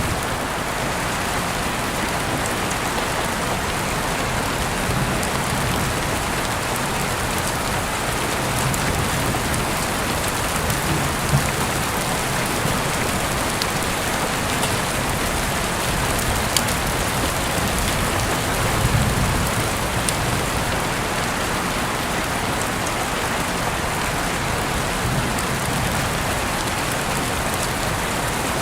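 Heavy rain falling steadily, a dense even hiss with scattered sharper drop ticks, and a soft low rumble swelling now and then.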